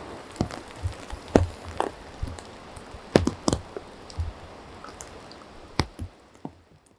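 Rain with scattered heavy drips landing close by, each a sharp tap, some with a dull thump. The rain hiss fades away near the end.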